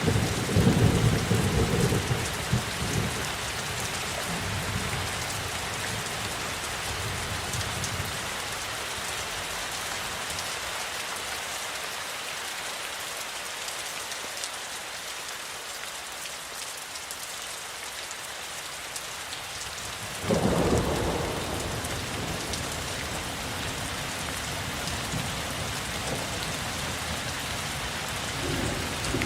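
Steady rain falling, with a low rumble of thunder dying away over the first several seconds. A sudden clap of thunder breaks in about two-thirds of the way through and rolls off over a couple of seconds.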